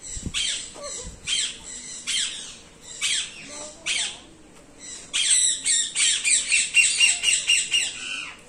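A bird squawking in harsh, falling calls about once a second, breaking into a fast run of squawks near the end.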